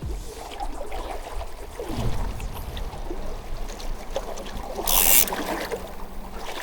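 River water flowing and splashing around a wading angler, with a brief loud rushing hiss about five seconds in.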